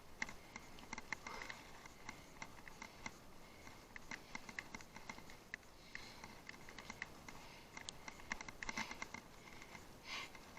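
Faint, irregular light clicks and rattles from a bicycle ridden over rough ground, with denser clusters around four and nine seconds in.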